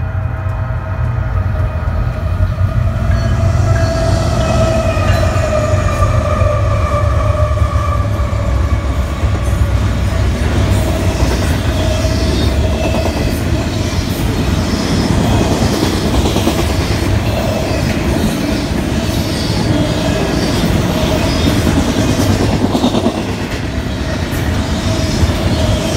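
Freight train of double-stack container cars passing close by: a continuous rumble of wheels on rail with a steady tone over it, and regular wheel clicks from about ten seconds in.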